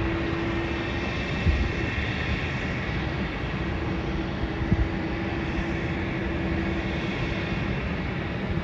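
Steady drone of airliner jet engines around an airport apron: a constant rushing noise with a steady hum running through it. A couple of brief knocks sound about a second and a half in and near the middle.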